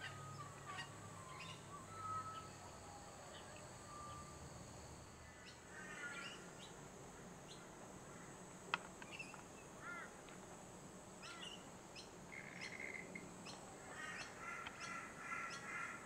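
Several birds calling faintly in the treetops: scattered short chirps and a few clear fluted whistles, with bouts of fast chattering near the end.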